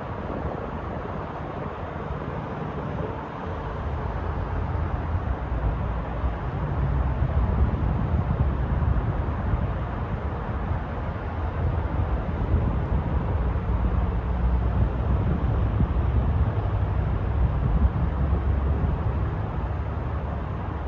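A 2020 Chevrolet Silverado 1500's 5.3-litre V8 running steadily, with a low sound that gets slightly louder about four seconds in.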